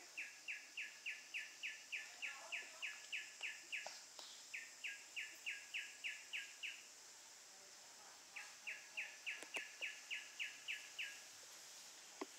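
A bird calling in fast runs of identical sharp notes, about four a second, in three bursts, over a steady high-pitched drone of insects.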